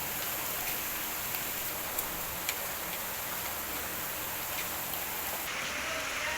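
Steady rain falling, an even hiss, with a few sharp drops landing close by now and then.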